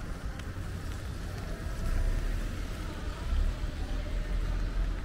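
Rainy street ambience: a steady hiss of light rain on wet pavement, with a low rumble that swells about two seconds in.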